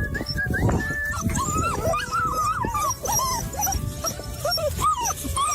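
Dog whining in a quick string of short rising-and-falling whines, over background music.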